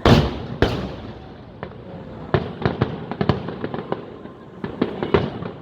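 Aerial fireworks bursting overhead. Two loud booms come right at the start, about half a second apart, then a rapid string of sharp cracks and pops from about two seconds in.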